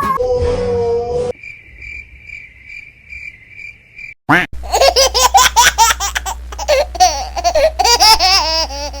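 Crickets chirping for about three seconds, then after a brief gap a child laughing loudly and at length, the laughter going up and down in pitch.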